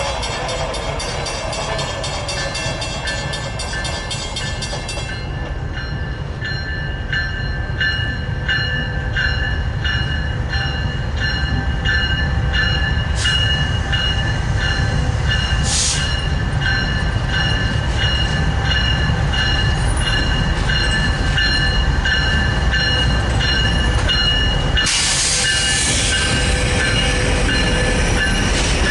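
Freight train of grain hopper cars rolling past, its wheels clicking evenly over the rail joints under a steady low rumble, with a high-pitched steady wheel squeal. The rolling noise grows louder near the end.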